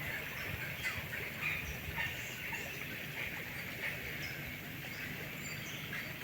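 Rainforest ambience: a steady chorus of insects and birds, with many short chirps, over a low rumble.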